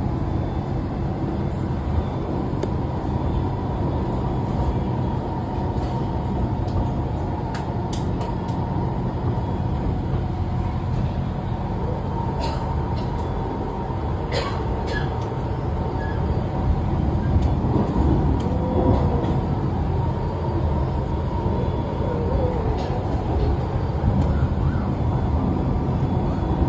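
Train running steadily: a continuous low rumble with scattered sharp clicks and knocks, growing a little louder about two-thirds of the way in.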